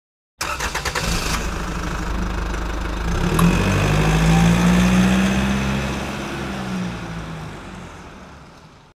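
A motor vehicle engine starts abruptly with a quick rattle of firing pulses, then runs with a steady low hum that swells and slowly fades away.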